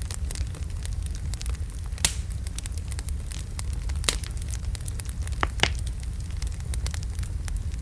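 Wood logs burning in a fireplace: a steady low rumble of flame with frequent crackles and sharp pops, the loudest about two, four and five and a half seconds in.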